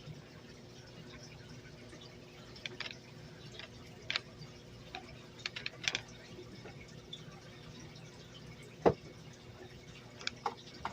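Water in an aquarium dripping and splashing in irregular small drops over a steady low hum, with one louder plop about nine seconds in.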